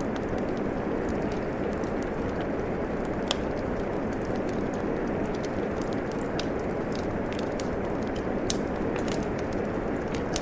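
Steady rain mixed with a wood fire crackling in a fireplace, with scattered small pops and two louder pops, about three seconds in and again near the end.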